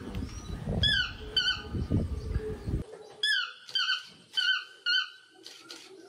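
A bird calling over and over with short, squeaky yelping notes, each dipping slightly in pitch, about two a second. A low rumbling noise under the first half cuts off suddenly about three seconds in.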